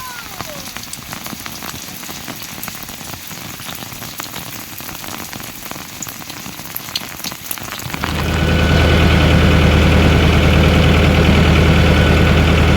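Rain falling, with scattered drop ticks. About eight seconds in, a loud, steady, low mechanical hum sets in and drowns it out.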